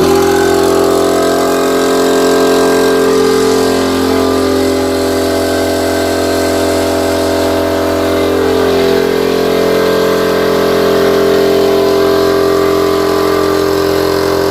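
Air compressor switched on and running, a loud steady hum with a few even tones, building up pressure in its tank.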